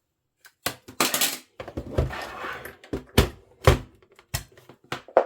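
Hard plastic knocks and clicks, about eight spread through, with a stretch of scraping and rattling between them, as a vintage Philips radio cassette recorder's case is handled for disassembly.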